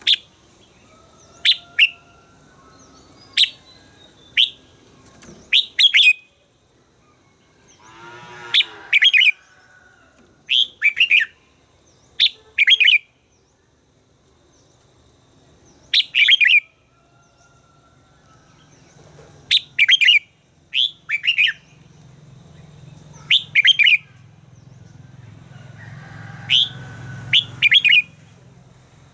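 Red-whiskered bulbul calling: short, sharp, loud notes, singly or in quick pairs and triplets, a second or two apart, with a pause of a few seconds midway. A faint low hum sits underneath in the second half.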